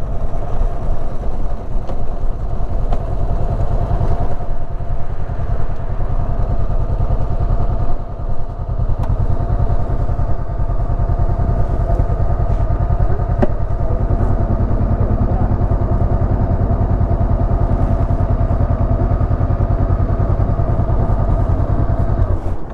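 Honda CB500X's parallel-twin engine running at a steady pitch, with a brief dip in level about eight seconds in.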